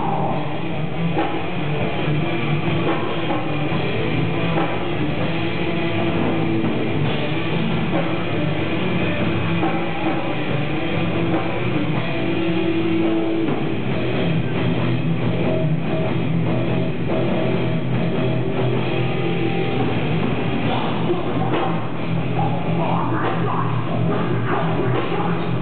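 Loud heavy rock music with drums and guitar, played over a car audio system.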